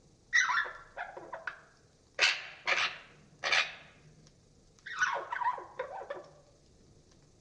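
Budgerigar calls played back slowed down, so they sound low and parrot-like: a chattering run, then three short harsh squawks, then another chattering run.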